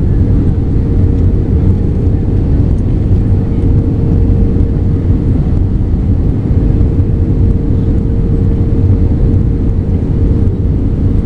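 Cabin noise inside an Airbus A320-214 in flight: a steady deep rumble of its CFM56 engines and the airflow, with a steady tone running above it. The aircraft is on its way down for landing.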